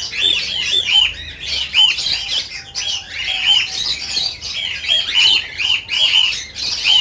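A crowd of caged cockatiels calling without pause: many short, shrill, arching calls overlapping, several a second.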